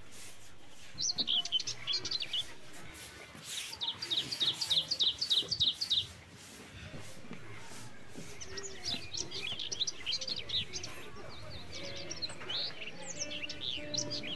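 Small birds chirping and singing: a burst of chirps about a second in, then a run of about eight quick repeated notes, and more scattered chirps through the second half.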